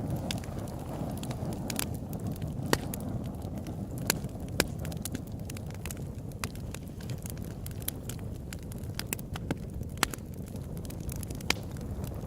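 Open-air wood campfire burning with a steady low rumble of flames and irregular sharp crackles and pops, a few louder snaps standing out.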